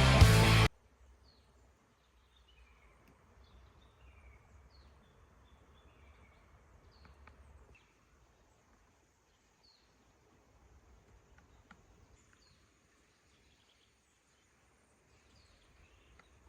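Background music cuts off under a second in, leaving faint open-air ambience: a bird repeating short, falling chirps about once a second over a low rumble.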